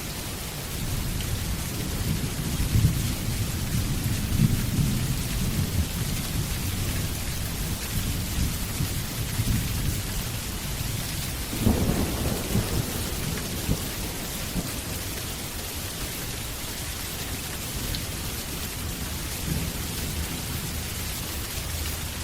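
Steady heavy rain with rolling thunder. A louder thunderclap comes about twelve seconds in, then the rumble fades toward the end.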